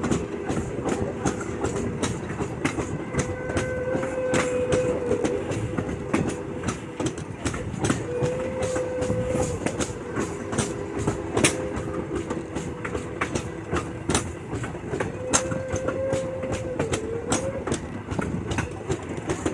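Passenger train rolling along, its car wheels clicking over the rail joints over a steady rumble. A drawn-out tone comes and goes several times.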